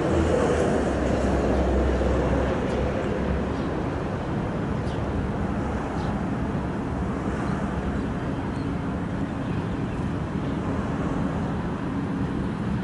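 Alstom KZ8A electric locomotive hauling a freight train slowly in, a steady rumble of the train. A low hum drops away about two seconds in, and a few faint clicks come through.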